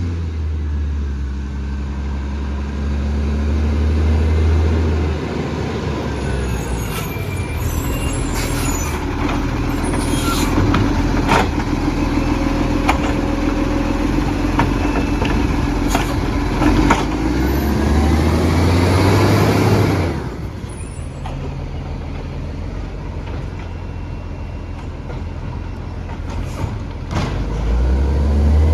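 Garbage truck engine running, with clanks and knocks as a bin is handled and emptied. About two-thirds of the way in, a rising sweep builds and then cuts off suddenly.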